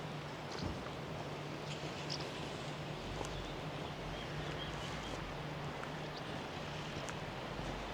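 Outdoor ambience: a steady low hum under a bed of noise, with faint high chirps scattered through it. A deeper rumble joins about three seconds in.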